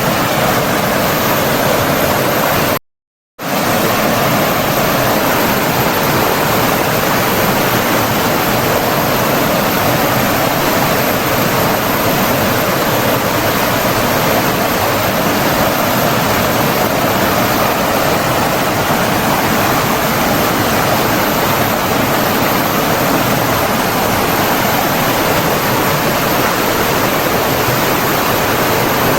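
Steady rush of flowing water, a stream or waterfall, as a dense even hiss. The sound cuts out completely for about half a second around three seconds in, then resumes unchanged.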